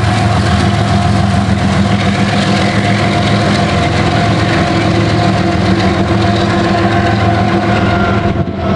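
Freight train passing: the steady drone of the lead diesel locomotives' engines over the rumble of a long string of tank cars rolling on the rails.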